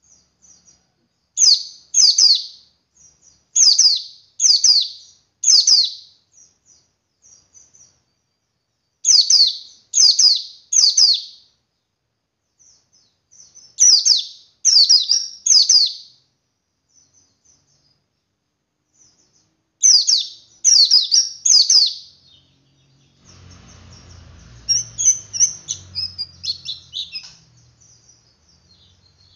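Male white-eye (pleci) calling: loud, sharp high notes in quick clusters of two to five, repeated every few seconds. About three-quarters through, these give way to a softer, rapid twittering (ngeriwik) over a low rumble.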